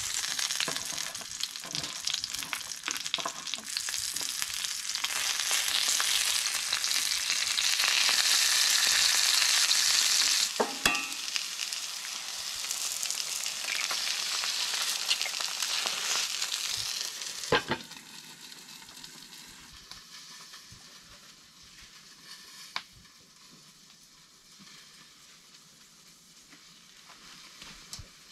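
Sausages and eggs frying in olive oil in a cast-iron skillet on a wood stove: a steady sizzle that swells and then drops to a faint hiss about two-thirds of the way through. Two sharp knocks come near the middle and just before the sizzle drops.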